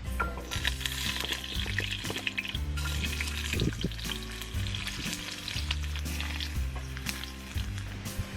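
Food sizzling and crackling as it fries in a hot pan, a dense hiss with fine pops, over background music.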